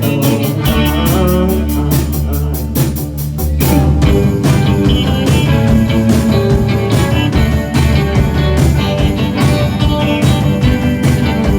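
Rock band playing live, guitar to the fore over drums. The sound grows fuller and louder about four seconds in.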